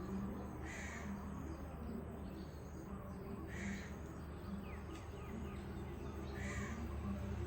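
A bird call repeated three times, about three seconds apart, with a few faint chirps between the second and third, over a steady low hum.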